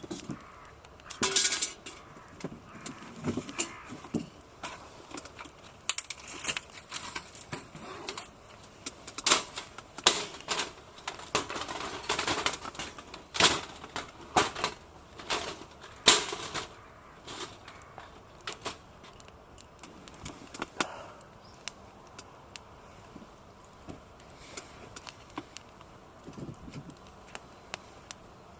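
Irregular clicks, clacks and sharp cracks of small hard objects being handled and knocked together, the loudest crack about halfway through, with sparser clicking near the end.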